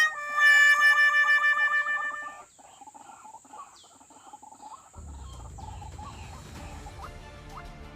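Loud, nasal calls of a white-breasted waterhen (ruak-ruak), pitch falling slightly, for the first two seconds or so. About halfway through, background music with a steady beat comes in.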